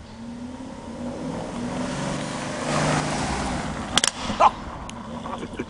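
Aston Martin sports car accelerating hard past at full speed, its engine note rising to a peak about three seconds in and then fading away. Sharp clicks about four seconds in, followed by a short loud sound, are the loudest moments.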